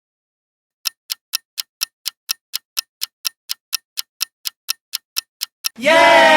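Countdown timer clock-tick sound effect, even ticks about four a second, starting about a second in. Near the end the ticking gives way to a loud cheer of 'yay'.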